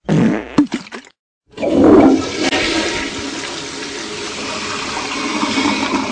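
A toilet flushing: a steady rush of water begins about a second and a half in and keeps going. Before it comes a short, loud, broken burst of sound and a moment of silence.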